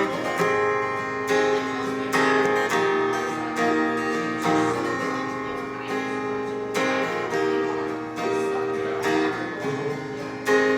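Acoustic guitar playing an instrumental passage: strummed chords left to ring, struck afresh every second or two.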